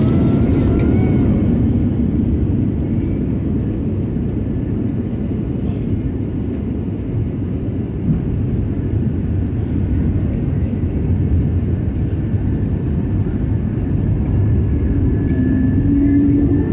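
Cabin noise inside an Airbus A320neo on its landing approach: a loud, steady low rush of airflow and the Pratt & Whitney PW1100G geared turbofan engines, with faint steady engine whine tones above it.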